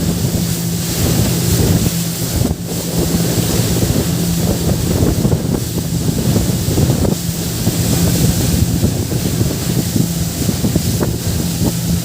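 Motorboat engine running at a steady hum, with wind buffeting the microphone and water rushing past the hull.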